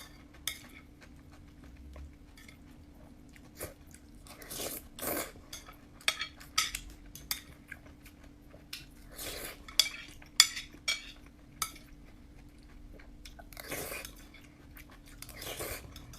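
Eating sounds of fried noodles being chewed, with irregular sharp clicks of utensils against a dish, a couple of them loud about ten seconds in.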